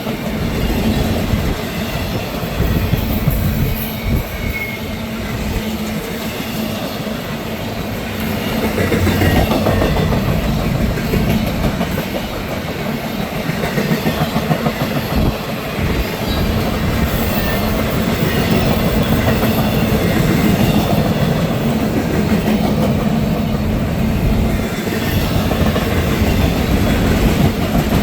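CSX trailer-on-flatcar intermodal freight train rolling past close by, a steady loud rumble with wheels clattering over the rail joints and a little wheel squeal.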